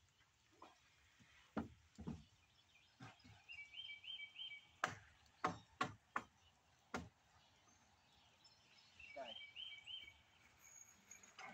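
Scattered sharp knocks, about eight over several seconds and loudest in the middle, with a bird chirping a quick run of three or four notes twice.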